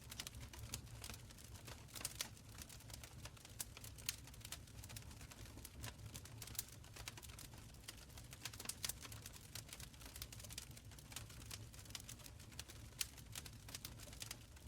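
Open fire crackling: irregular sharp pops and snaps, several a second, over a low steady rumble.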